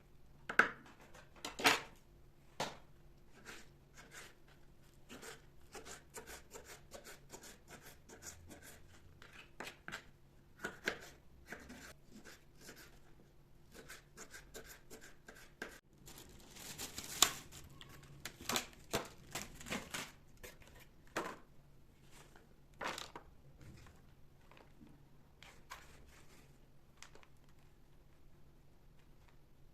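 Hands-on kitchen food-prep sounds: scattered clicks and knocks with a longer rustle about 17 seconds in, and quieter handling in between.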